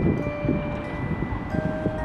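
Chime-like bell notes ringing out one after another, each note held and overlapping the last, over a low rumbling background.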